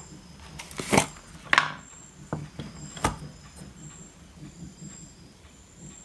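Sharp clicks and knocks of tools and parts being handled at a repair bench, four or five in the first three seconds, over a low hum and a faint high whine that comes and goes.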